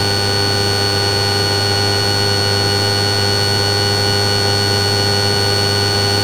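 Steady drone of a patrol aircraft's cabin and intercom audio: an even hum with several fixed tones over a noise bed, unchanging throughout.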